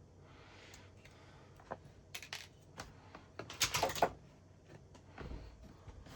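Small plastic model-kit parts being handled, a run of light clicks and clatters against each other and the work surface, densest about halfway through, with a soft low bump near the end.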